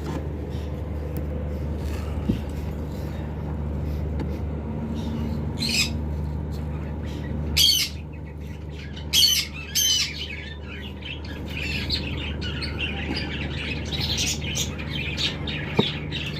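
Cockatiels calling: a few short, loud calls spread over the middle of the stretch, then a run of softer chirps near the end, over a steady low hum.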